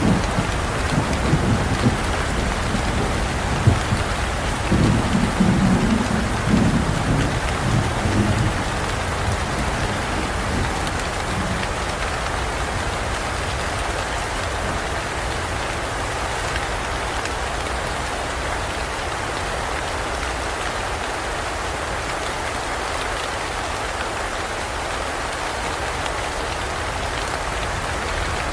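Heavy rain falling steadily, with thunder rumbling low through the first several seconds and dying away.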